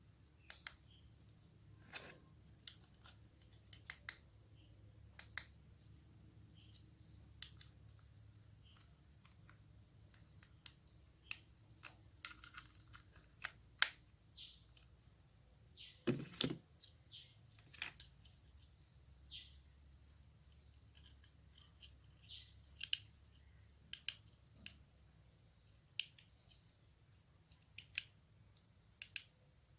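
Scattered small clicks and taps from hands handling a package and its contents, with a heavier knock about halfway through, over a faint steady high whine.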